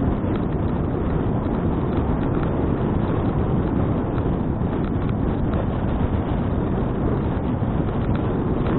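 Steady wind rumble buffeting an action camera's microphone on a moving bicycle.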